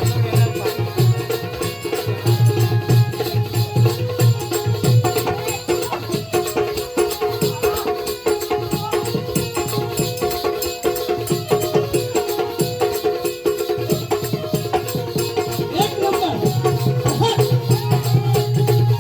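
Folk music for a Konkan balya (jakhadi) dance: dense, fast percussion with rattling beats under a melody line. A low sustained tone underneath is strong at first, drops away after about five seconds and returns near the end.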